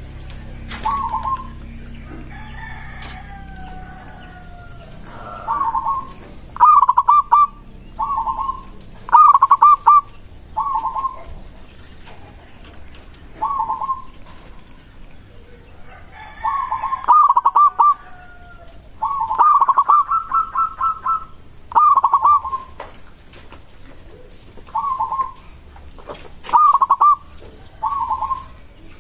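Zebra dove (perkutut) cooing repeatedly in short phrases, some broken into quick rolling runs of notes, with gaps of a second or two between them. Twice a fainter, longer, falling call from another bird sounds behind it.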